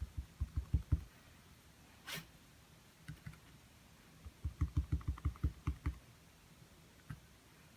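Paintbrush dabbing rapidly on a small stretched canvas: two quick runs of soft, dull taps, about seven a second, one at the start and a longer one past the middle, with a short hiss about two seconds in.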